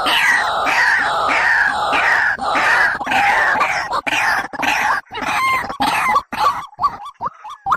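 A bird calling: a quick series of downward-sliding notes, about two a second, then, from about five seconds in, scattered short notes and clicks with brief gaps between them.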